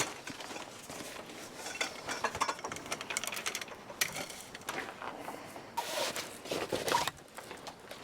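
Irregular light clattering and knocking, with a few louder clusters of knocks about two and a half, four and six seconds in.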